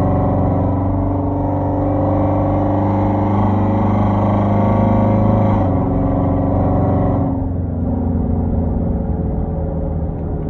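Hyundai Genesis 5.0 V8 with a straight-piped 2.5-inch exhaust, Flowmaster Super 10 mufflers and no catalytic converters, driving under load with revs climbing slightly. The engine note drops in pitch a little over five seconds in, then turns quieter and lower about a second and a half later.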